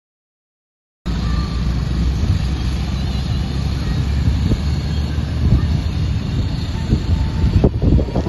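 After about a second of silence, the steady low rumble of a vehicle on the move sets in, mixed with wind noise and scattered knocks.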